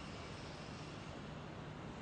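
Faint steady background hiss with a low hum: room tone after the speech ends.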